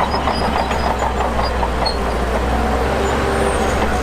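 Shantui DH17 bulldozer's diesel engine running steadily and loud, with a dense metallic clatter over it and short high squeaks.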